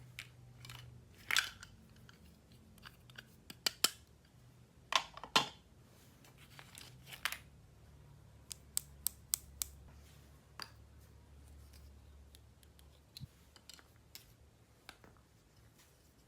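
Plastic toy packaging and pieces being handled during an unboxing: scattered clicks, snaps and short scraping strokes, loudest in the first five seconds, then a quick run of light clicks about halfway through.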